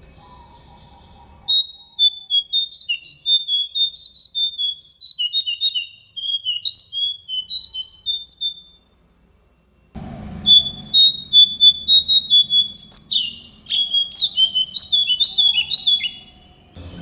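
Jongkangan (cingcoang) songbird singing: fast strings of short, high whistled notes, one long phrase, a second's pause, then a second, louder phrase.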